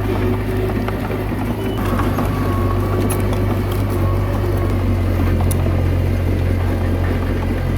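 Komatsu D21A bulldozer's diesel engine running steadily, its note filling out a little about halfway through, with a few faint clicks.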